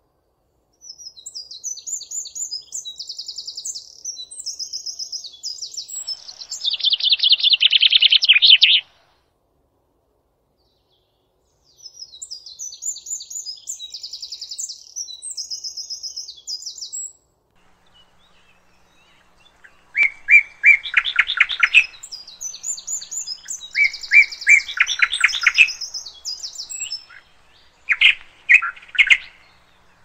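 Songbird song in bursts of fast, high chirping trills and louder, lower rattling trills, the songs separated by pauses of a few seconds.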